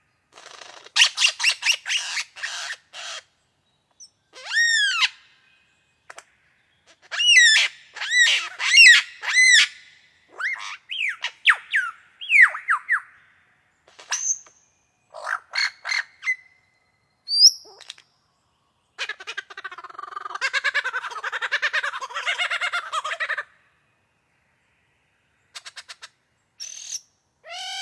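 A bird calling in a varied series: quick runs of chirps, clear arched whistled notes, and a stretch of harsh chattering about twenty seconds in.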